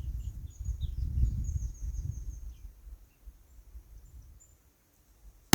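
Wind buffeting the microphone, fading out, with small birds chirping. Right at the end comes a single sharp .22 rifle shot with a short echo.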